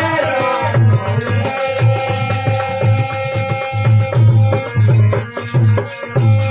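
Marwari devotional bhajan music in an instrumental passage: a hand drum keeps a steady beat about twice a second under long held melody notes. The sung line fades out about half a second in.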